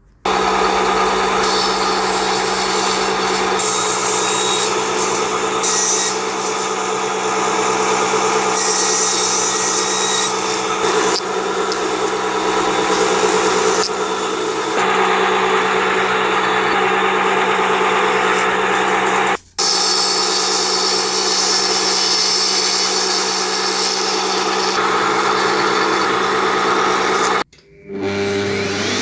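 An electric power tool runs steadily against pine wood with a grainy, rubbing sound over a constant motor hum. It cuts out abruptly for a moment twice, about two-thirds of the way through and near the end.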